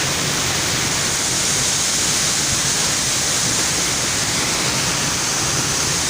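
A waterfall about 30 m high pouring: a steady, even rush of falling water that does not let up.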